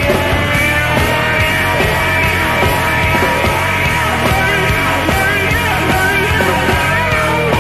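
Loud rock music with a steady beat: a full band playing.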